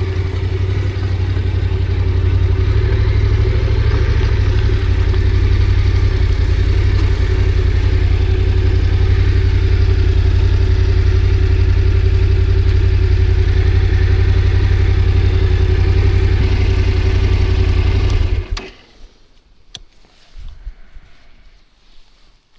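Yamaha Ténéré adventure motorcycle's engine running steadily, then cutting off suddenly about eighteen seconds in, leaving near quiet with a few faint clicks.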